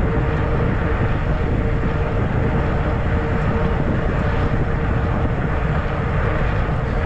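Wind rushing and rumbling over the microphone while riding a fat-tire e-bike, with a steady hum from the bike underneath.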